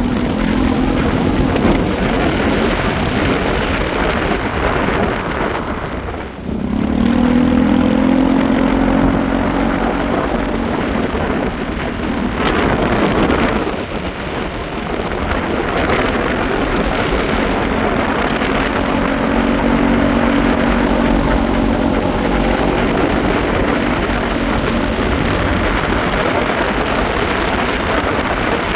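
Motorcycle engine running under way, with wind rushing over the microphone. About six seconds in the engine note drops briefly, then picks up and holds steady again.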